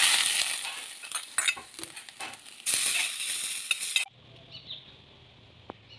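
Chopped banana flower sizzling in hot oil in a wok while a metal spatula stirs and scrapes it, with clicks of the spatula against the pan. The sizzling is loudest at the start and again shortly before it cuts off suddenly about four seconds in, leaving a faint low hum and a few ticks.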